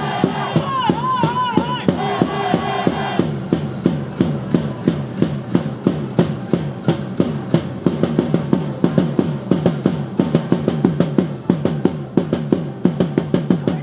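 Baseball cheer-song music with drums: a wavering pitched melody for about the first three seconds, then a fast, steady drumbeat of several strokes a second.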